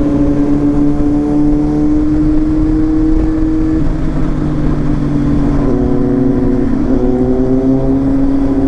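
Kawasaki Z800 inline-four motorcycle engine running while riding, its note steady, dipping slightly about four seconds in and shifting again near seven seconds, with a low rushing noise underneath.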